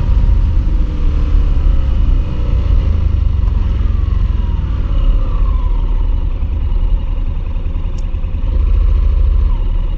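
Motorcycle engine pulling on a steady climb, its pitch rising and falling with the throttle, under a heavy rumble of wind on the microphone.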